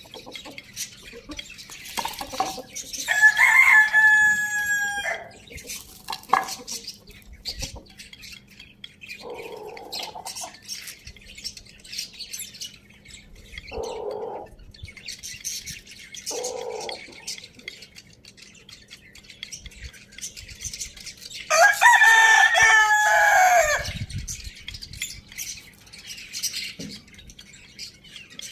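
Rooster crowing twice, each crow a long call of about two and a half seconds that drops in pitch at the end. Shorter, softer clucks come in between, with small birds chirping behind.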